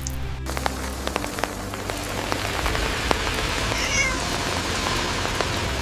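Steady hiss of running or spraying water, with scattered small clicks, as a cat is washed. A cat gives one short, high meow about four seconds in.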